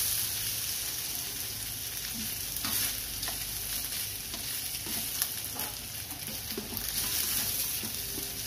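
Pre-fried chicken pieces sizzling in a stainless steel wok as a spatula stirs and turns them, with scattered clicks and scrapes of the spatula against the pan.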